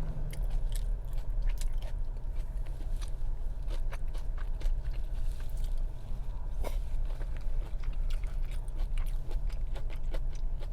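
Close-up sounds of a person chewing and biting sushi, with many short wet mouth clicks and small crunches, over a steady low hum.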